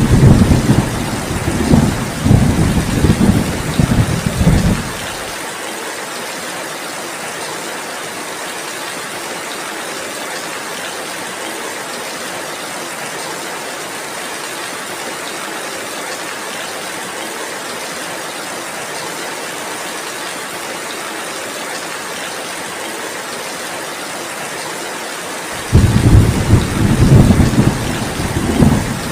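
Heavy rain falling steadily, with thunder rumbling for the first five seconds, cutting off suddenly, then rumbling again near the end.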